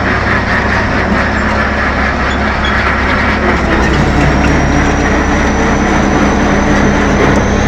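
T-11.01 / B-12 crawler bulldozer's diesel engine running steadily and loud, freshly rebuilt after a major overhaul. Its tone shifts slightly about halfway through, with a faint high whine rising slowly in the second half.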